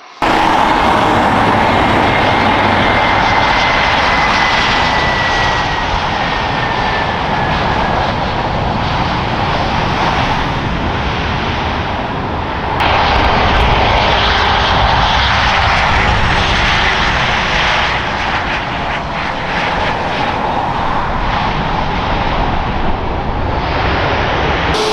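Airliner's engines running loud and close, with a high whine that slowly falls in pitch over the first several seconds. The sound steps up suddenly about halfway through.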